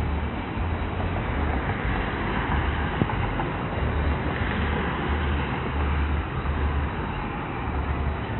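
Helicopter running close by: a steady, loud rushing noise with a low throb that swells and fades.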